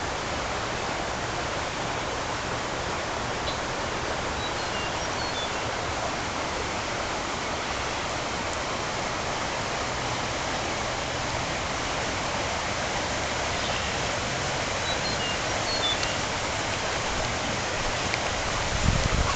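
Swollen Harpeth River floodwater flowing fast, a steady even rush of water. A few faint high chirps show twice, about five seconds in and again near fifteen seconds.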